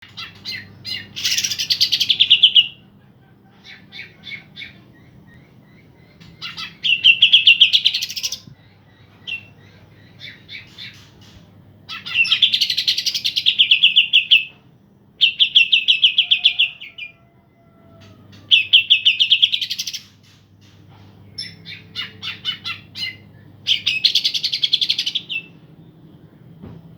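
A pair of cucak ijo (green leafbirds) singing energetically: loud bursts of fast, rattling song about every three seconds, each one to two and a half seconds long, with short separate chirps in between. A faint steady low hum lies beneath.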